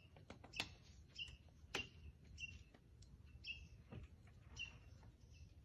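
A bird chirping repeatedly against quiet woodland background, one short call about every half second to a second, with a few faint clicks.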